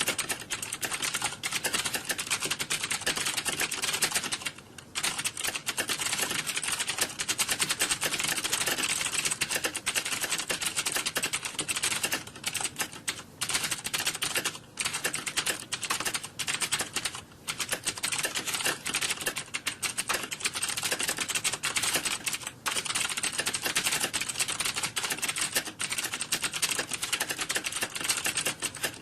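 Computer keyboard typing: a fast, continuous clatter of key presses, with a few brief pauses, the longest about four to five seconds in and again around seventeen seconds.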